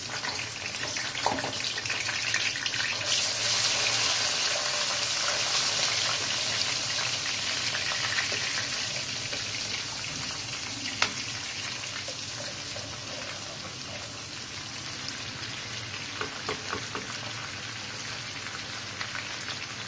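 Ginger-garlic paste sizzling in hot oil in a non-stick wok while being stirred with a wooden spatula; the sizzle is loudest a few seconds in and then slowly dies down. Two sharp clicks come about ten and eleven seconds in.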